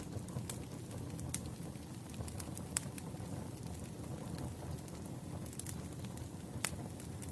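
Campfire of burning wood logs crackling: a steady low rush of flame with scattered sharp pops and snaps, a few louder ones about a second and a half, three seconds and near seven seconds in.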